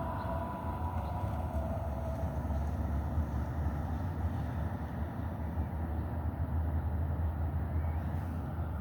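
Steady low outdoor rumble with no speech, with a faint high whine in the first couple of seconds that fades away.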